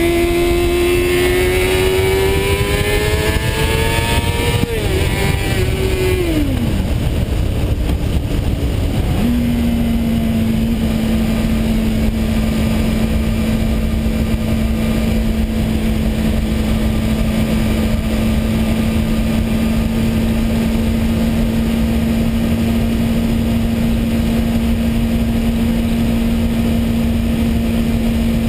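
Honda CBR600RR's inline-four engine on the road: revs climb for about four seconds, fall away, then hold one steady note at cruising speed for most of the time. Wind rushes over the bike-mounted microphone throughout.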